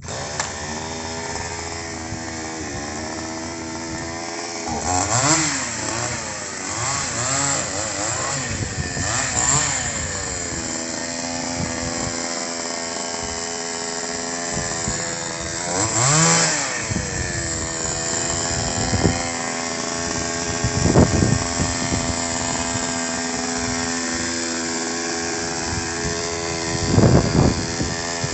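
Trimtech 45 cc two-stroke chainsaw running, revved up and back down several times, with steady running in between and a few brief loud spikes later on.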